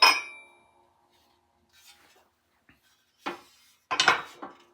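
Metal parts of a mower differential being handled: a sharp metallic clink right at the start that rings briefly, a few faint small knocks, then a cluster of clanks and knocks about four seconds in.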